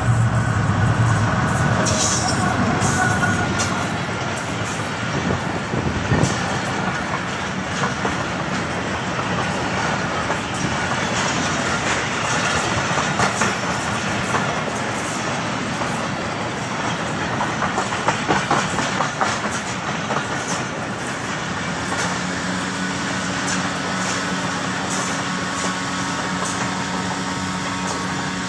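A Pakistan Railways diesel-hauled passenger train passing close by, at its loudest in the first few seconds as the locomotive goes past. The coaches then roll by with a steady rattle and the repeated clickety-clack of wheels over the rail joints. A steady low hum joins near the end.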